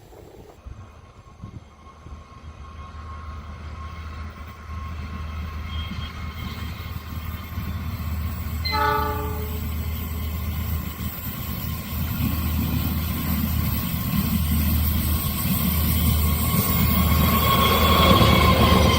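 A diesel locomotive-hauled train approaching, growing steadily louder over a low engine rumble, with one short blast of the locomotive horn about nine seconds in.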